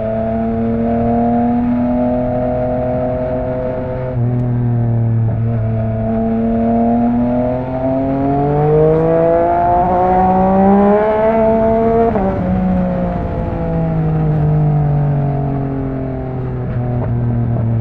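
Yamaha MT-09's inline three-cylinder engine through an Akrapovic exhaust, under riding load. The revs hold steady at first, climb from about six seconds in, drop sharply at about twelve seconds, fall away, then rise again near the end.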